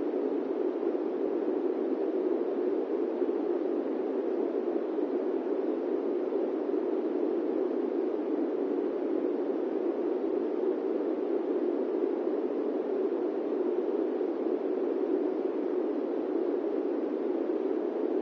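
Steady airliner-cabin-style noise: an even, unchanging rush centred low in pitch, with no engine tones, chimes or other events.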